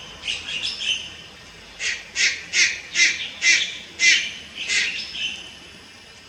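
Juvenile Malayan night heron calling: a quick cluster of short rasping notes, then a run of about eight calls a little under half a second apart.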